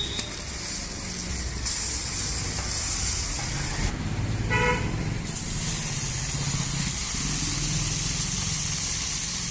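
Oil sizzling steadily as fish fries on a flat iron tawa, over the low rumble of passing traffic. A short vehicle horn toot sounds about four and a half seconds in.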